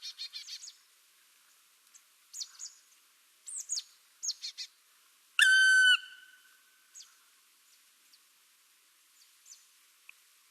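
Birds singing: short chirps and quick trilled notes, with one loud, clear whistle held for about half a second a little past halfway.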